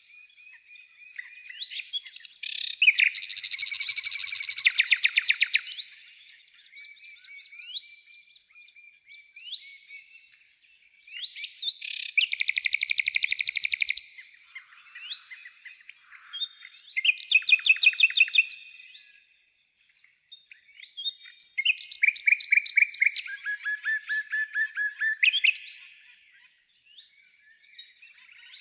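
A songbird singing: varied phrases of whistled notes and fast trills, each lasting a few seconds, separated by short pauses with softer single whistles between them.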